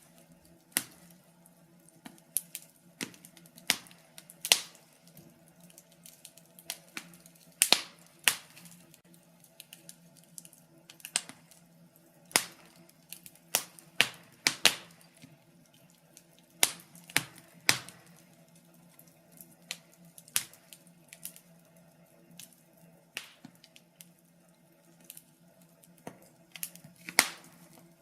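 Wood fire in a fireplace crackling, with irregular sharp pops and snaps, some close together and some a second or more apart, over a faint steady low hum.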